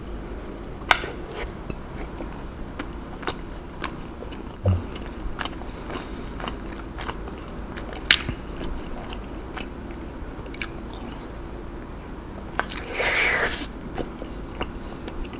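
Close-miked eating of a fried cheese corn dog: a bite at the start, then crunching and chewing of the batter with scattered sharp crackles. A breathy puff of air out comes about 13 seconds in.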